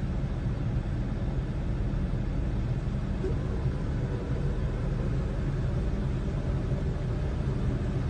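Jeep engine running with a steady low rumble.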